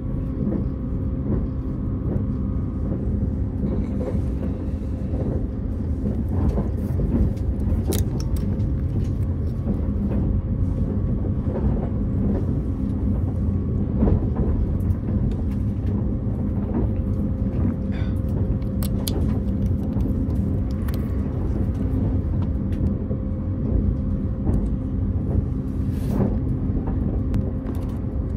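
Steady running rumble of a moving passenger train, heard from inside the carriage, with a few light clicks scattered through it.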